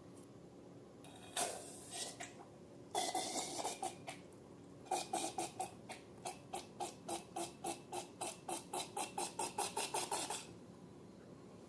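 Slime being worked by hand: a couple of separate wet squishes, then a quick run of short squishy squelches, about three to four a second, that stops near the end.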